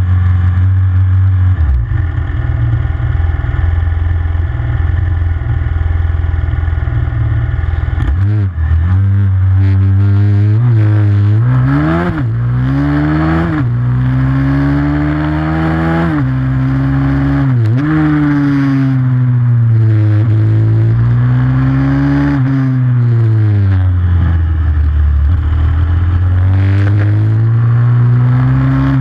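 Pit bike's single-cylinder four-stroke engine. It holds a steady note for the first eight seconds or so, then revs up and down over and over, its pitch rising with each acceleration and dropping off between them.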